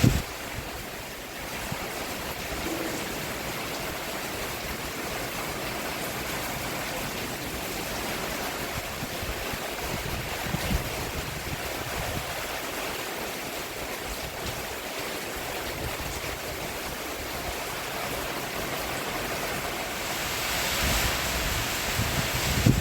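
Steady rain falling on a roof, an even hiss of drops that swells louder for the last couple of seconds.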